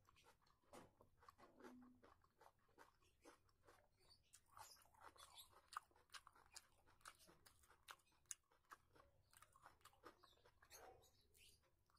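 Faint close-up chewing and mouth clicks of a person eating rice and curry by hand, a steady run of many small sharp clicks and crunches.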